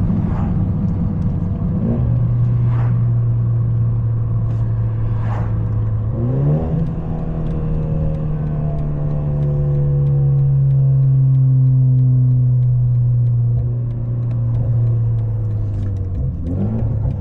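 Straight-piped, catless BMW 530 four-cylinder exhaust droning steadily while cruising. The engine note climbs quickly about two seconds in, again around six seconds, and once more near the end, then holds a deep, steady drone that swells in the middle.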